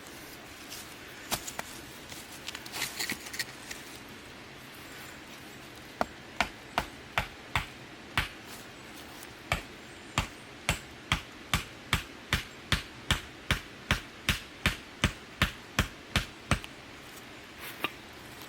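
Repeated sharp striking, like hammering, at about two and a half strokes a second, in two runs with a short pause between. A few scattered knocks and light clicks come before it.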